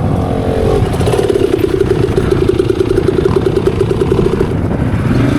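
Honda CRF250F dirt bike's single-cylinder four-stroke engine running at steady revs while riding, over a rough low rumble. Near the end the revs drop to a lower note.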